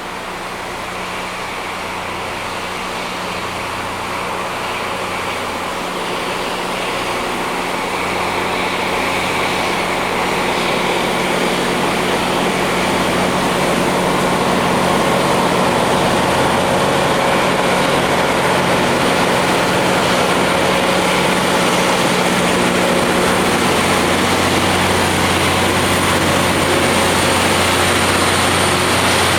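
Rail grinder working on the track: engines running with a broad grinding hiss. It grows louder over about fifteen seconds as it approaches, then holds steady.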